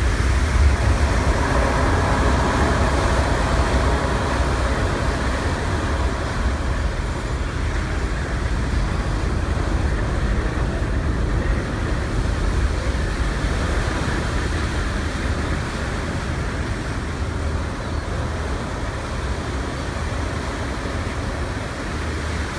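SS Badger's coal-fired Skinner Unaflow steam engines running full astern: a steady deep rumble with heavy shaking vibration, over the churn of the propeller wash, easing slightly toward the end.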